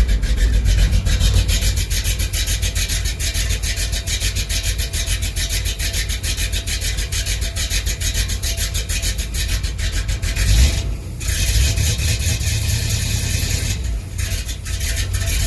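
Old pickup truck's engine idling just after a cold start, with a steady rapid pulsing and a brief dip about eleven seconds in. The engine is still cold, and the owner finds the truck cold natured.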